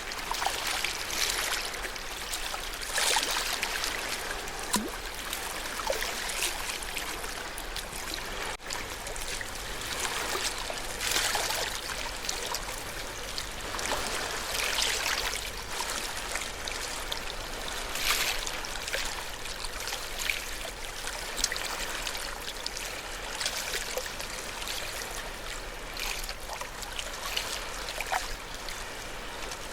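Ocean waves washing on the shore: a steady hiss of moving water with a brighter surge every few seconds.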